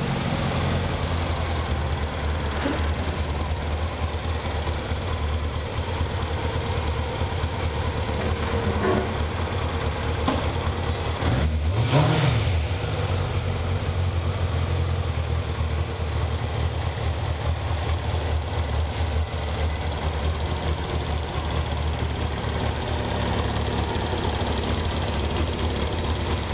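Kawasaki ZZR600 inline-four motorcycle engine idling steadily, revved briefly once about halfway through, the pitch rising and dropping back to idle.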